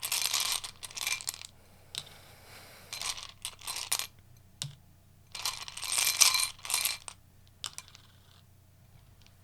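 Tarot cards being shuffled and handled: bursts of crisp card rustling with quiet pauses between them.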